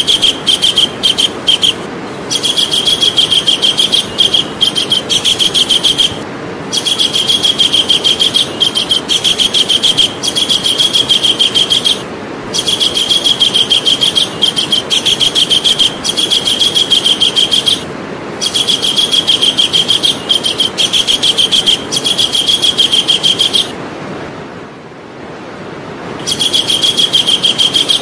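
Javan kingfisher calling: a fast run of high, sharp notes, repeated in bouts of about four to five seconds with short breaks and a longer pause near the end, over a steady background hiss.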